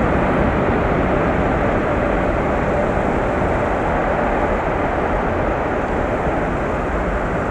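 Boeing 777F freighter's GE90 jet engines, a loud steady roar that slowly fades as the aircraft rolls out after landing.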